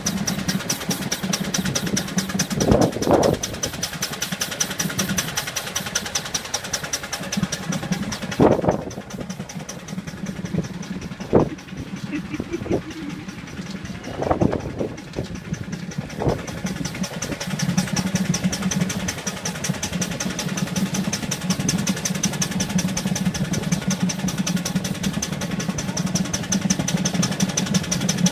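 Miniature Ruston Proctor steam traction engine running along the road with a steady, fast working beat. It eases off through the middle and picks up again, with a few short louder sounds along the way.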